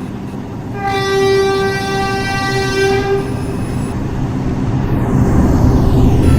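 R142 subway train sounding its horn in one long blast of about two seconds as it approaches the station, followed by the rising rumble of the train pulling in.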